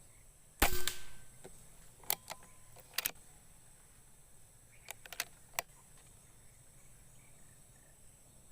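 A single air-rifle shot a little over half a second in, a sharp crack that dies away over about half a second. It is followed by several quieter, sharp metallic clicks at about two, three and five seconds in.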